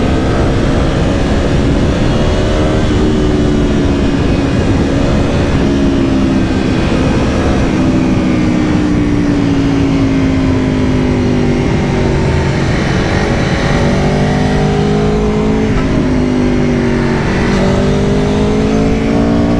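2022 Aprilia Tuono V4 Factory's V4 engine under way, its pitch climbing and stepping down several times as the bike accelerates and shifts gear, with wind noise underneath.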